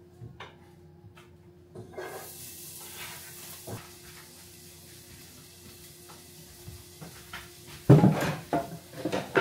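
Diced onions going into hot olive oil in a pan: a steady sizzle starts suddenly about two seconds in and keeps going. Near the end a louder clunk and clatter of kitchenware cuts through it.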